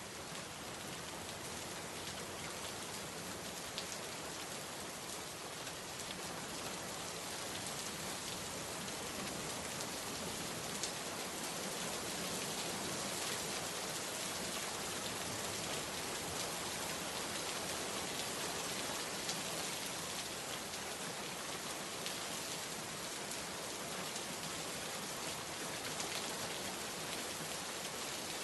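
Heavy rain falling steadily, a dense hiss with scattered individual drops ticking on surfaces.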